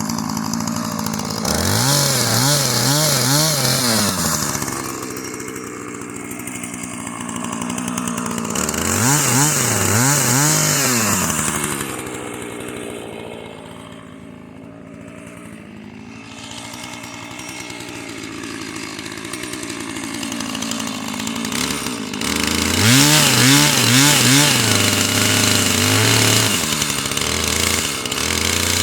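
Husqvarna two-stroke chainsaw bucking wood into firewood lengths, revved hard in several long stretches with its pitch rising and falling, dropping back to a quieter, lower run in between.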